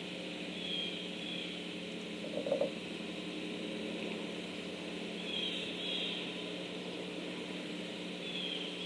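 Steady machine-like hum with a constant hiss. Faint high bird chirps come in pairs a few times, and one short louder note sounds about two and a half seconds in.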